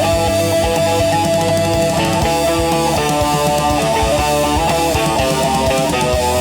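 Instrumental rock music with no singing: an electric guitar melody over bass and a steady beat.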